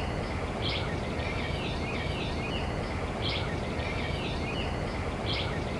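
Birds calling over a steady outdoor background hiss: a short high note about every two and a half seconds, each followed by a few quick sliding chirps.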